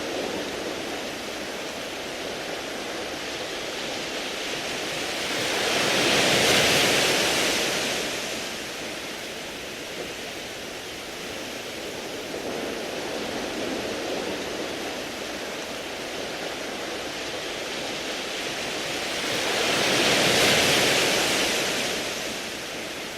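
Sea waves on a beach of smooth round pebbles: steady surf hiss with two waves swelling and falling away, one about a quarter of the way in and another near the end.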